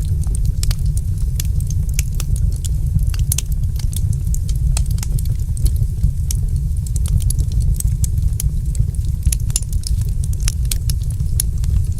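Fireplace fire crackling, with frequent sharp, irregular pops and snaps over a steady low rumble.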